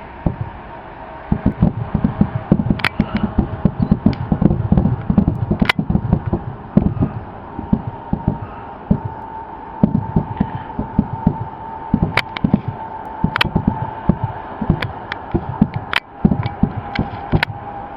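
Aerial fireworks going off in a rapid barrage: dense low booms several a second, with a sharper crack now and then. A faint steady high tone runs underneath through the second half.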